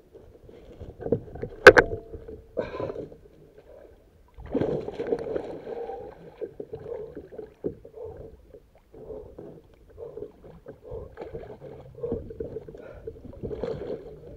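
Irregular knocks, rubbing and water movement on a fishing kayak while an angler plays a big pike, with one sharp loud knock about two seconds in.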